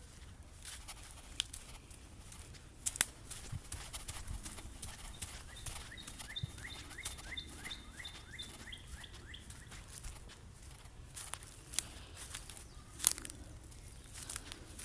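A small bird chirping in a quick run of about a dozen short, evenly repeated notes in the middle, over scattered rustling and sharp clicks of handling.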